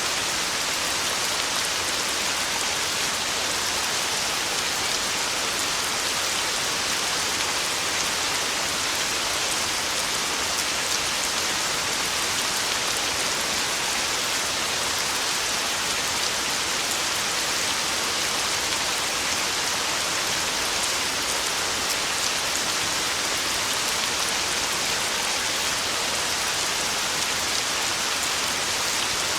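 Heavy, steady downpour drumming on a tin roof, a dense hiss with scattered individual drop ticks and no thunder.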